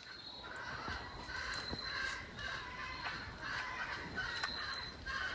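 Faint bird calls: a string of short calls repeating about twice a second, with a thin high insect-like trill coming and going behind them.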